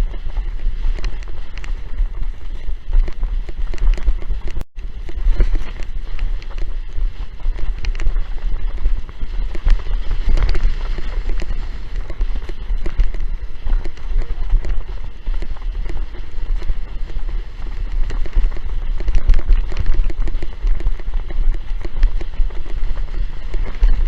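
Strong gusting wind buffeting the microphone in a heavy, uneven rumble, with water splashing and hissing against a windsurf board. There is a very brief dropout about five seconds in.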